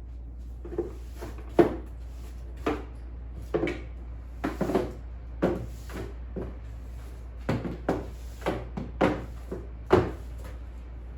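A series of irregular knocks and clunks, about fifteen in all, as household objects are handled and set down, over a steady low hum.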